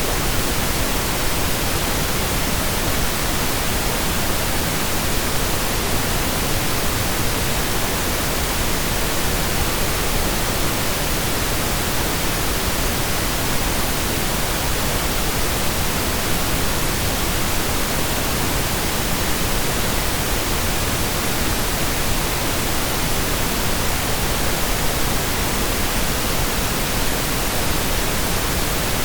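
Steady synthesized pink noise: an even, unchanging hiss spread evenly across the octaves, like steady rain or a waterfall.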